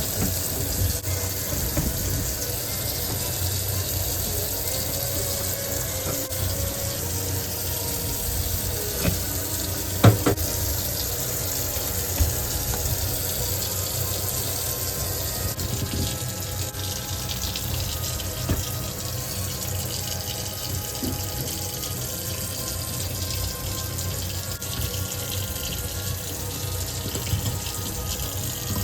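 Seawater rushing and splashing steadily at the harbour's edge, with one sharp knock about ten seconds in.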